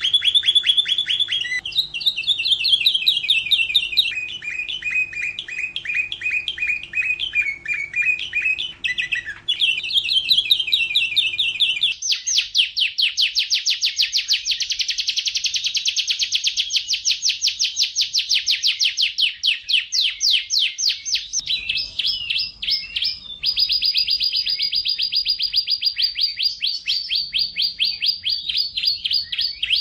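Domestic canary singing a continuous song of rapid rolling trills, each phrase a fast run of repeated notes, some high and some lower. A faint low hum lies under the first twelve seconds and then stops as the recording changes.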